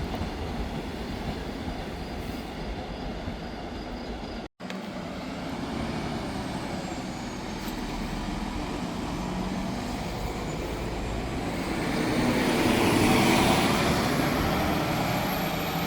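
A train running on the rails, cut off abruptly about four seconds in. Then road-vehicle noise from a bus that grows louder and passes near the end, with a faint high whine rising in pitch.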